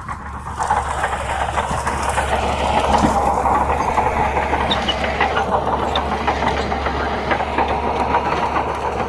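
Bulldozer's diesel engine running steadily with a constant low drone and a busy metallic clatter of small clicks, growing louder about half a second in.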